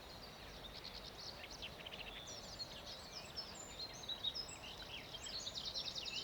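Several songbirds singing at once, a dense mix of high chirps, whistles and quick trills, busiest in the last couple of seconds.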